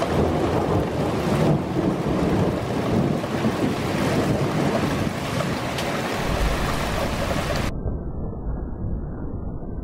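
Thunderstorm: rain falling steadily with thunder rumbling underneath. The deep rumble grows stronger about six seconds in, and shortly after, the sound turns suddenly muffled, leaving only a low rumble.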